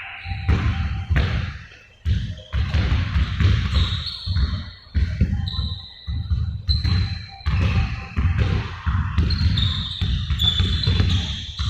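Basketballs bouncing repeatedly on a hard court floor, one to two bounces a second, with short high squeaks in between.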